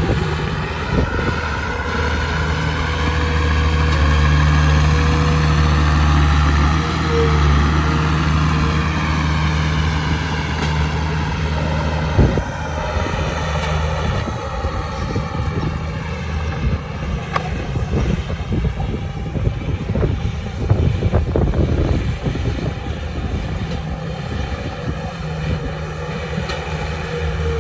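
Heavy diesel engine of earthmoving machinery running, its pitch rising and then falling over the first ten seconds. A sharp clank comes about twelve seconds in, and several more knocks follow later.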